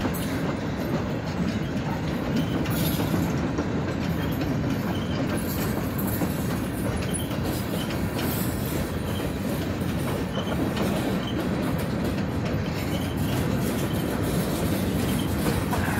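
Freight train of covered hopper cars rolling past close by: a steady rumble of wheels on rail, with clicking as the wheels cross the rail joints.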